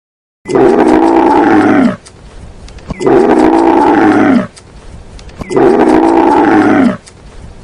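A loud, drawn-out animal call, played four times in an identical loop about every two and a half seconds, each call lasting about a second and a half.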